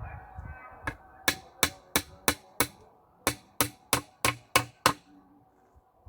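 Hammer blows on wood, twelve sharp strikes at about three a second in two runs of six with a brief pause between them, as in driving nails into a timber frame.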